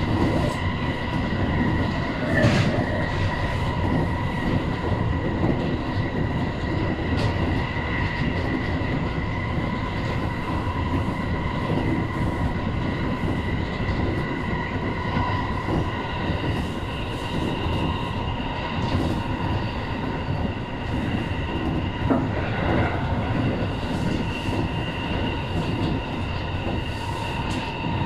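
Tobu 850 series electric train running, heard from inside the car: a steady rumble of wheels on rail under a steady high hum. A few short knocks from the track come through, the loudest about two and a half seconds in.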